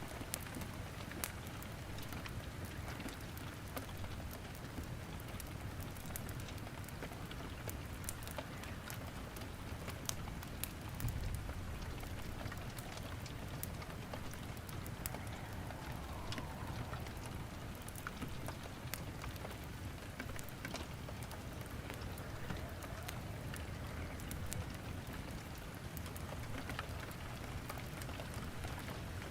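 Wood fire crackling in a fireplace, with scattered sharp pops, over a steady hiss of rain. A brief low rumble about eleven seconds in.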